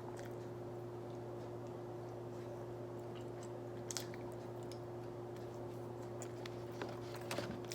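A person chewing a soft doughnut, with a few faint mouth clicks, over a steady low hum.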